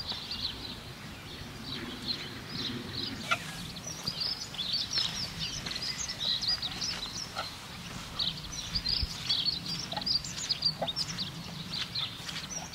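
Small birds chirping and singing, with many short high calls overlapping continuously.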